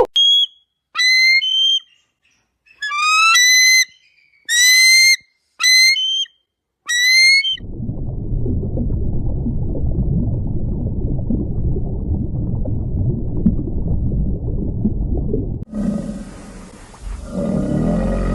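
A series of about seven short, whistle-like animal calls, each rising in pitch, over the first seven seconds. Then comes a steady low rumbling noise for about eight seconds, and near the end a different, louder animal sound begins.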